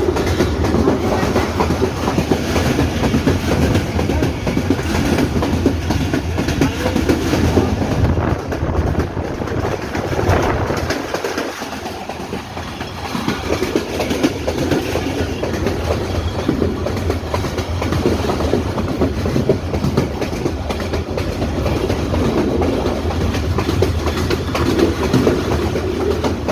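Passenger train running along the track: the steady rumble of the carriages with wheels clattering over the rail joints, easing a little for a couple of seconds about halfway through.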